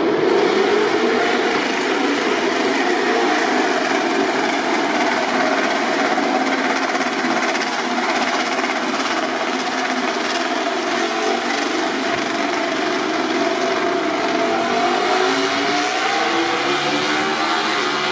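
MotoGP racing motorcycles' 1000 cc four-stroke engines running loud and continuous at high revs, with an engine note climbing in pitch near the end as a bike accelerates.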